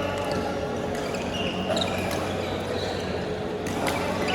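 Badminton doubles rally: several sharp racket strikes on the shuttlecock and short high shoe squeaks on the court floor, over a steady low hum.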